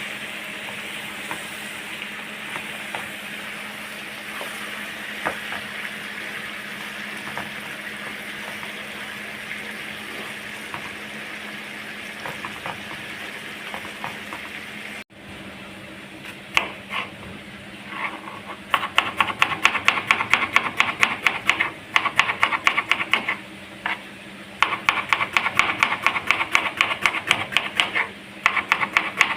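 Food sizzling with a steady crackling hiss. After an abrupt cut, comes a run of sharp, rapid taps, several a second, in bursts with short pauses, like quick chopping on a board.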